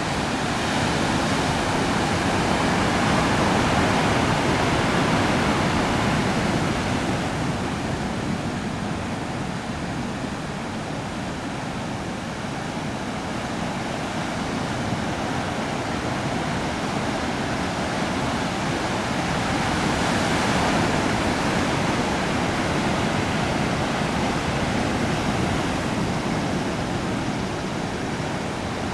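Heavy surf from a typhoon swell: a steady roar of breaking waves that swells louder twice, a few seconds in and again about two-thirds of the way through.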